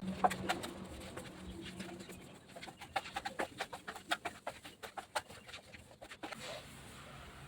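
A pigeon cooing, one low drawn-out coo over the first two seconds, among many irregular sharp clicks and taps.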